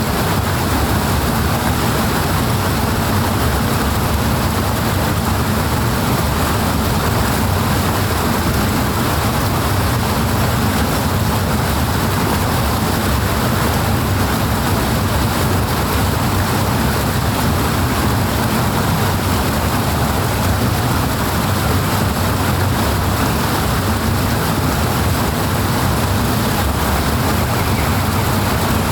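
Powerful rushing water, a loud, steady, unbroken roar with no distinct splashes or breaks.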